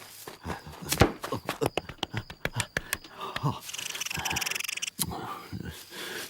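Cartoon sound effects: a quick run of clicks and knocks, then about a second of hissing, mixed with short grunting and sniffing vocal noises.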